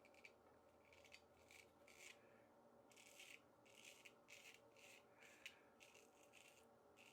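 Faint, short scratchy strokes of a Weck Sextoblade open-blade razor cutting lathered stubble, about a dozen in quick succession with brief pauses between them.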